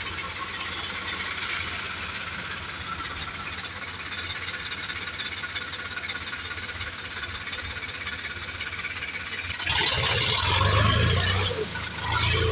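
Heavy diesel engine running steadily under a low drone. A little before the end the sound jumps suddenly to a louder, harsher engine noise.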